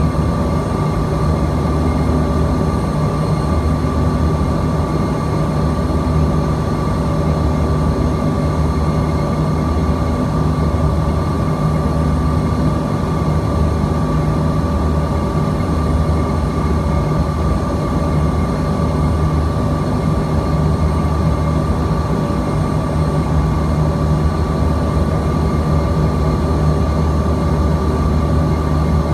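Steady cabin noise inside a Bombardier CRJ-200 regional jet in flight: the drone of its rear-mounted GE CF34 turbofans and airflow, a constant whine over a low hum.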